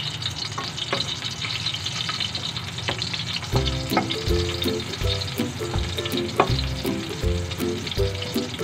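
Garlic cloves sizzling in hot oil in a wok, stirred with a wooden spatula that scrapes and taps against the pan. Background music with a low beat comes in about three and a half seconds in.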